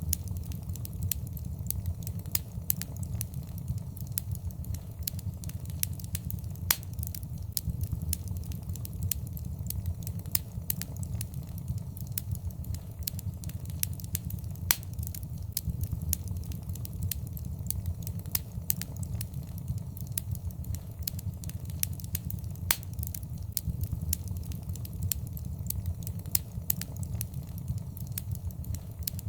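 Fire in a fireplace crackling, with frequent irregular sharp pops over a steady low rumble.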